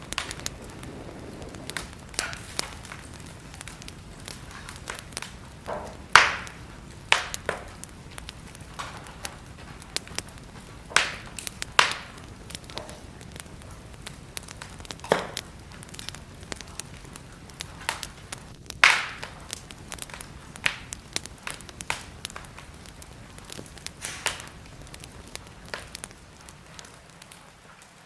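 Wood fire burning in a fireplace, with a steady low hiss and frequent irregular crackles and sharp pops.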